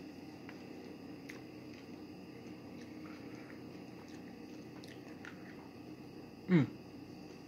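Faint chewing of a Nerds Gummy Clusters candy, crunchy candy coating over gummy, with scattered small clicks and a steady low hum behind it. About six and a half seconds in comes one short hum of the voice that falls in pitch.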